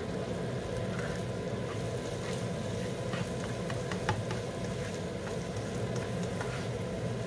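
Eggs and canned mackerel sizzling steadily in a hot nonstick wok as they are stir-fried, with a few light scrapes and taps of the spatula against the pan.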